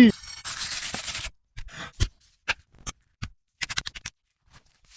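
A brief hiss, then a run of short, irregular scrapes and clicks from kitchen utensils working food.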